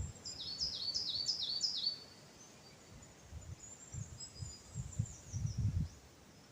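A small songbird singing a quick phrase of four repeated high notes, each sliding down in pitch, followed by fainter high calls. Several soft low thumps come midway through.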